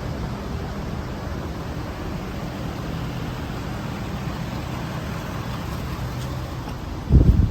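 Ford F-250's Power Stroke diesel engine idling with a steady low rumble. A loud low thump comes near the end.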